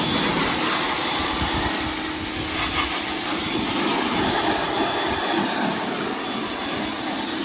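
Ryobi electric pressure washer running and spraying water: a steady loud hiss with a high, even motor whine.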